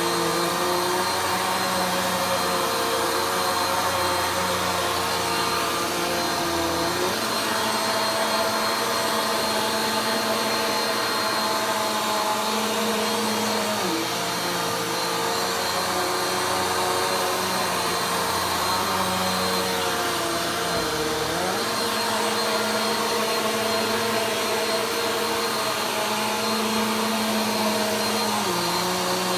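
Vacuum cleaner running steadily during slow vacuuming of the floor, its motor hum shifting slightly in pitch about every seven seconds as the load changes with each slow pass.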